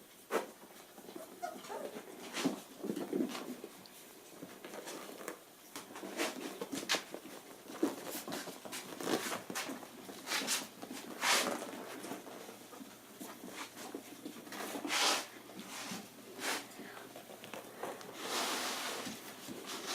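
Five-week-old Portuguese Water Dog puppies scuffling about: scattered scratches and taps of their paws on the floor, with a few short puppy whimpers early on.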